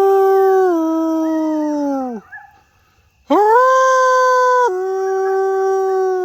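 Two long, loud canine howls, each held at a steady pitch, dropping a step partway through and sliding down as it fades; the second begins about three seconds in.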